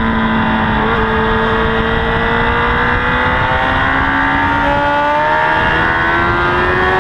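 Honda CBR1000RR inline-four engine under hard acceleration at speed, its pitch climbing slowly and steadily as the revs build, with a small step up about a second in. Heavy wind rush runs underneath.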